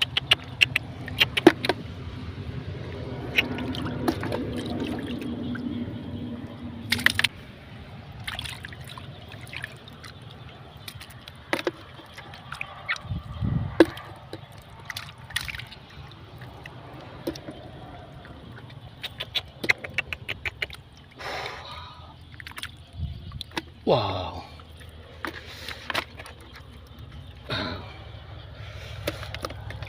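Water sloshing and splashing, with many scattered sharp clicks and knocks and a few short voice-like sounds.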